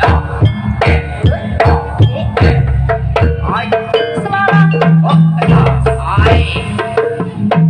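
Jaranan ensemble music: hand drums beaten in a busy, driving rhythm over held low gong-like tones and pitched percussion.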